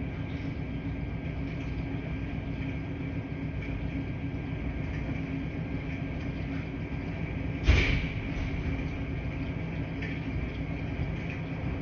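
Washing machines running with a steady low hum and rumble, with one sharp thump a little under eight seconds in.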